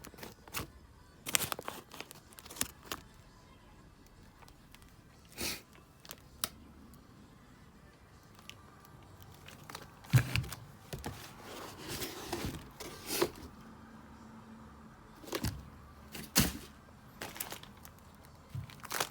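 Irregular clicks, knocks and rustling of objects being handled, with a busier cluster about halfway through and again near the end.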